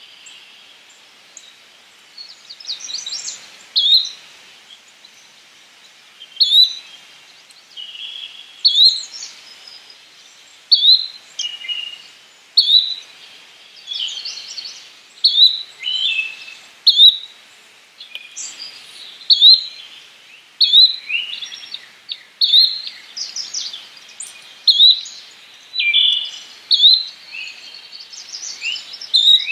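Yellow-bellied flycatcher calling, a short sharp note repeated about every two seconds, with other birds chirping and singing in between.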